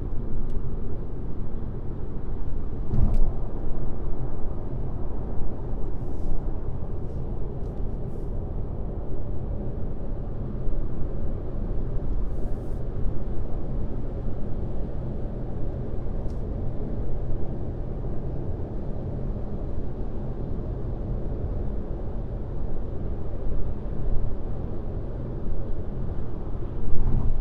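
Car driving at highway speed: steady road and tyre rumble with engine hum. A short knock comes about three seconds in, and a few faint brief ticks follow.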